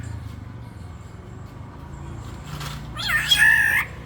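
Black-naped oriole giving one drawn-out call, under a second long, about three seconds in, over a low steady hum.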